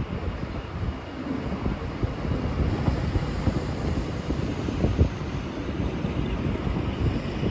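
Low, uneven rumble of a Siemens Nexas electric train moving through the station, with wind buffeting the microphone.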